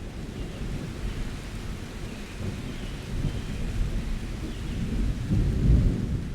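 Summer thunderstorm: rolling thunder rumbling low and continuously, swelling louder about five to six seconds in, over steady rain.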